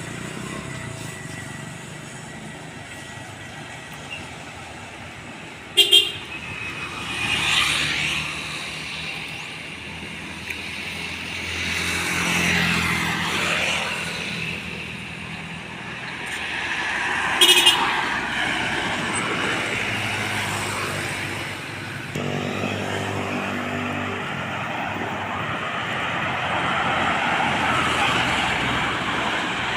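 Road traffic with trucks and other vehicles passing one after another, their engines and tyres swelling and fading. A vehicle horn gives two short, loud blasts, about eleven seconds apart.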